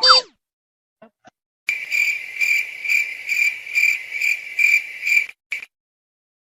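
Cricket chirping in an even rhythm of about two to three chirps a second. It starts about two seconds in and cuts off abruptly, after a brief falling blip at the very start.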